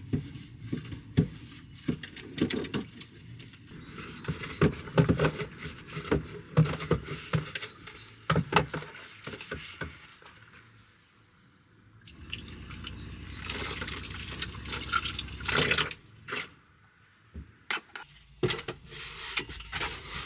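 Water pouring and dripping into a small container or sink, with scattered knocks and clatters of handling.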